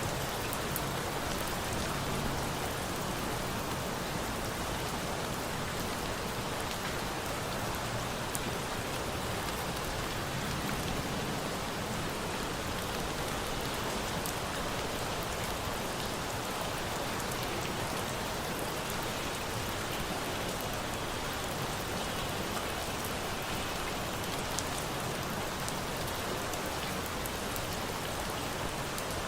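Steady rain falling and pattering, with a few sharp ticks scattered through it.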